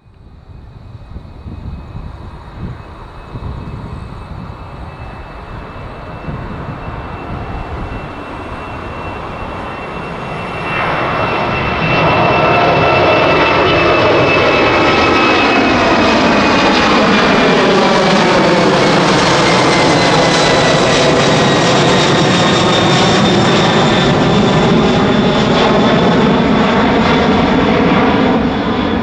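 Boeing 767-300ER's twin turbofan engines at takeoff thrust, growing louder and then jumping to a loud, steady level about eleven seconds in. A high whine runs through it and slowly drops in pitch in the second half as the jet goes past.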